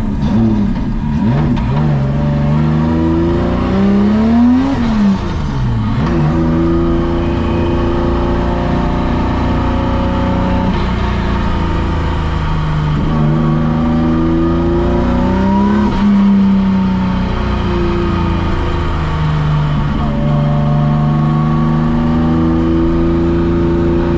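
Nissan Skyline R32 drift car's engine and exhaust under way. The revs climb steeply and drop sharply about five seconds in, then hold and rise and fall again several times through the gears.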